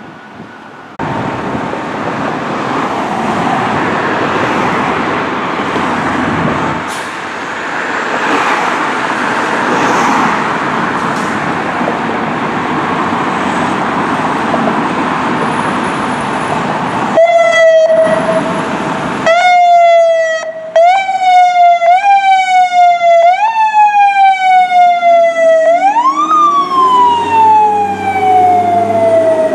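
Fire engine moving off with steady engine and road noise for the first half. Its siren comes on a little past halfway with a held tone, then switches to a fast repeating sweep that jumps up and slides down. Near the end the sweep slows into a long rise and fall, and a lower wail climbs slowly underneath.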